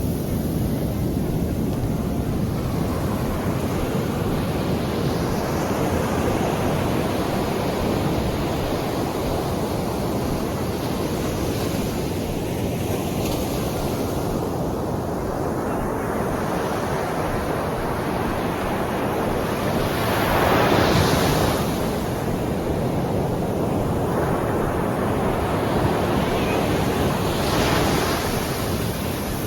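Sea waves breaking and washing on the shore in a steady rush, with a louder surge of surf about two-thirds of the way through and another near the end. Wind buffets the microphone.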